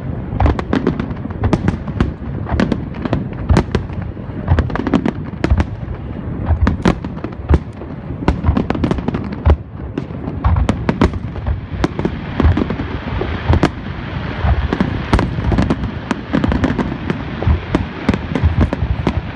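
Aerial fireworks display going off in a rapid, continuous barrage of bangs, several a second. About twelve seconds in, a steady rushing hiss joins the explosions.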